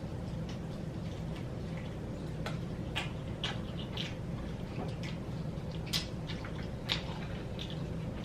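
A person chewing fried chicken close to the microphone, with scattered wet mouth clicks and smacks over a steady low hum.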